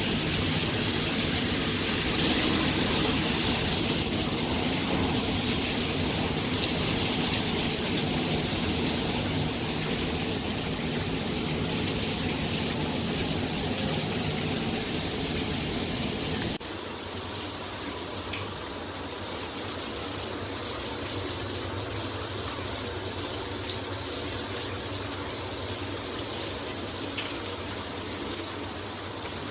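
Shower head spraying water in a steady rush. About two-thirds of the way through the sound changes abruptly and becomes a little quieter.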